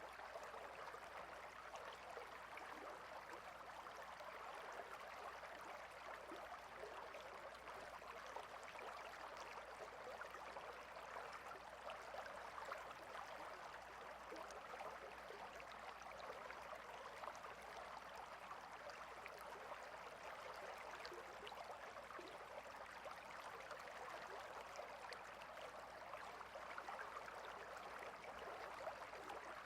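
Quiet, steady flow of a small water stream, an even rushing with fine bubbling detail.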